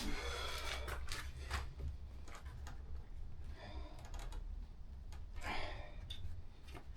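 Scattered light clicks and brief rustles as small parts are handled and picked through, over a low steady hum.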